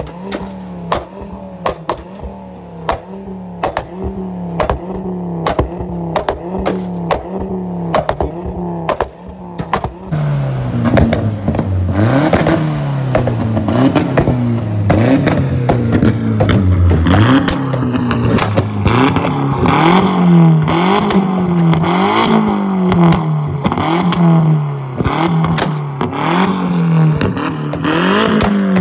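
Modified car's engine idling with regular sharp pops, then from about ten seconds in revved again and again, the engine note rising and falling about once a second, louder, with sharp pops and crackles between revs.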